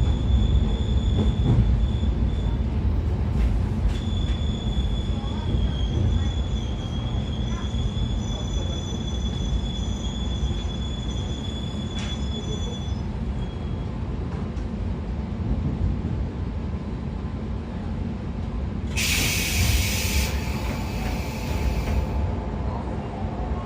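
A 113 series electric train running on rails, a steady low rumble of wheels and bogies. A thin, high wheel squeal comes and goes in the first half. Near the end there is a short, loud hiss.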